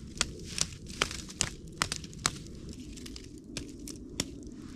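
Campfire crackling: irregular sharp pops and snaps over a low steady rustle.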